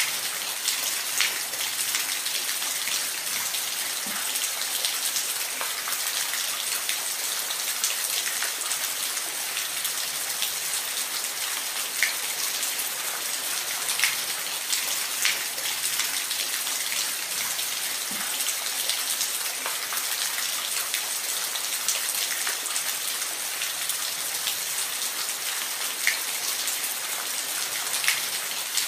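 Steady rain falling, an even hiss with individual drops ticking sharply here and there on a hard surface.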